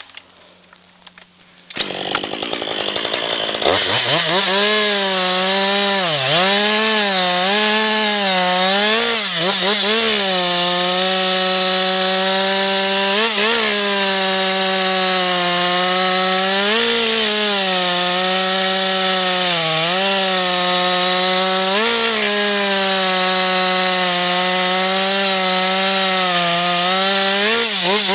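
Husqvarna 562XP two-stroke chainsaw. About two seconds in it comes on loud and revs up to full throttle, then runs flat out cutting hemlock. Its pitch sags briefly again and again as the chain bogs in the wood, and recovers each time.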